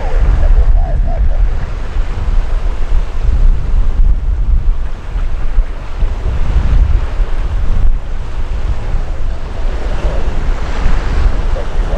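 Heavy wind buffeting the microphone, a loud, uneven low rumble with a rushing hiss over it.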